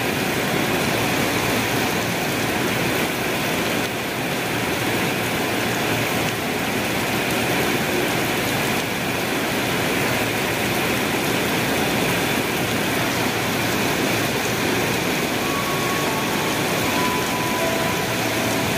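Heavy tropical rain pouring with a steady hiss, over the running of an electric commuter train moving through the station. A faint whine that steps in pitch comes in near the end.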